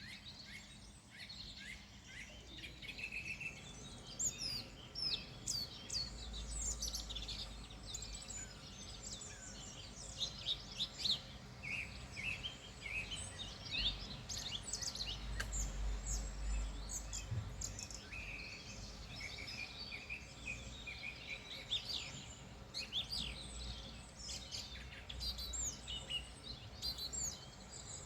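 Mixed birdsong: many small birds chirping and trilling over one another without pause. A low rumble runs underneath from about six seconds in.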